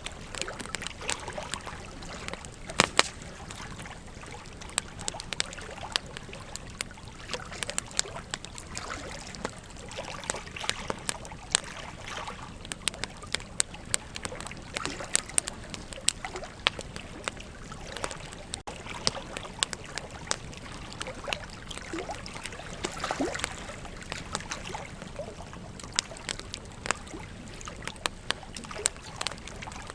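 Wood campfire burning, crackling with irregular sharp pops and snaps over a steady hiss, a few louder pops about three seconds in.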